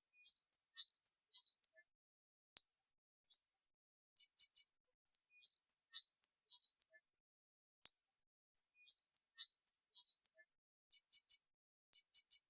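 Recorded song of the kemade bird, played as a lure and tutor call: loud, high 'cit' notes, some short upward-sweeping whistles and some in rapid trains of three or four sharp clicks, given in bursts with short silent gaps between them.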